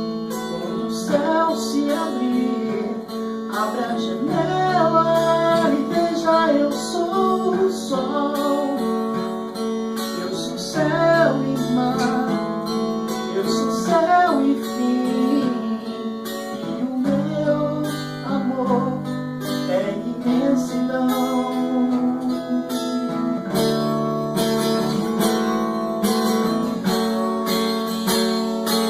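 Acoustic guitar strummed steadily through the song's closing instrumental passage, with a gliding melody line above the chords in places.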